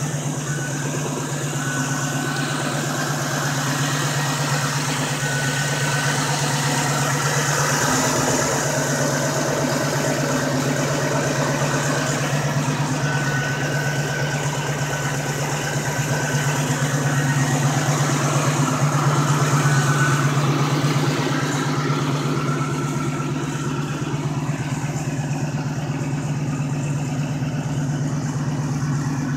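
Ford Mustang's 302 small-block V8 with a Holley 750 double-pumper carburettor, idling steadily through Hooker headers, 3-inch pipes and Flowmaster Super 44 mufflers. It grows a little louder for a few seconds past the middle.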